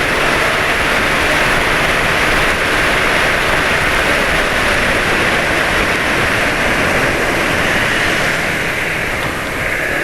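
Steady rushing wind and road noise heard while riding a motorcycle on the road, with a faint engine hum underneath.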